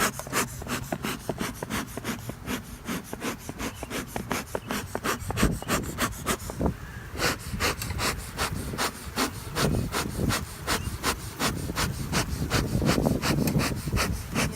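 Rapid, rhythmic scraping against the wooden parts of a beehive, about four or five strokes a second, as the hive is reassembled.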